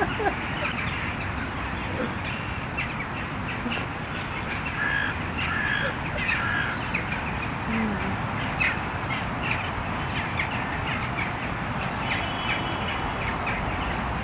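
Bird calls over steady outdoor background noise, with a few short calls clustered about five to seven seconds in.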